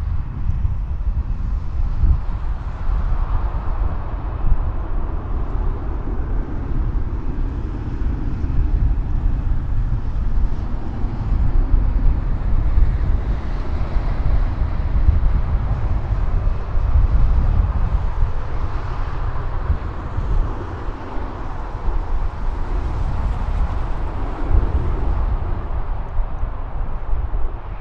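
Jet airliner engines rumbling steadily outdoors, with wind buffeting the microphone and making the low end swell and gust.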